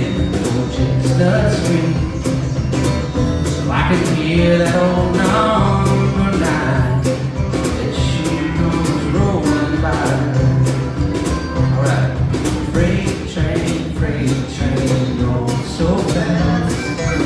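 Live band playing a country-folk song, with guitars and bass over a steady drum beat.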